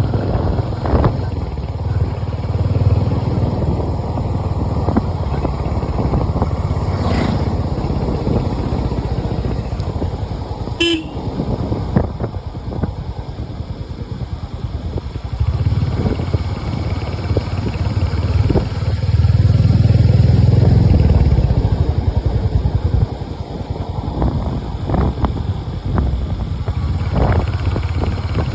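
Road vehicle in motion: steady low engine and wind rumble that swells about two-thirds of the way through, with a brief horn toot about eleven seconds in.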